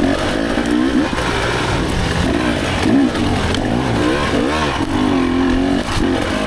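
Dirt bike engine heard from on the bike, revving up and down over and over as the throttle is worked, its pitch rising and falling every second or so under a rough rushing noise.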